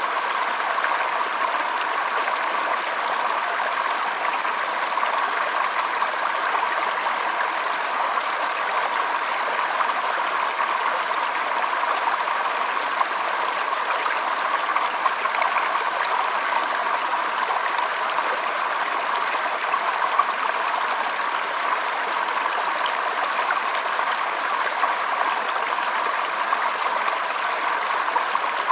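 Shallow stream flowing and trickling over stones, a steady rushing with fine splashy detail.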